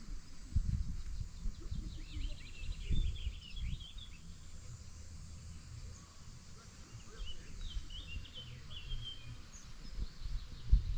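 Small birds chirping in two short bouts of song, over a low uneven rumble with occasional knocks.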